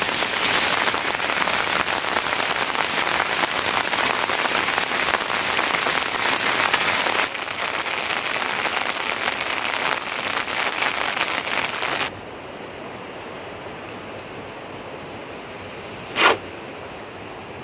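Heavy rain falling steadily. About twelve seconds in it cuts to a much quieter stretch where an insect chirps in a fast, even pulse, and a single sharp knock sounds near the end.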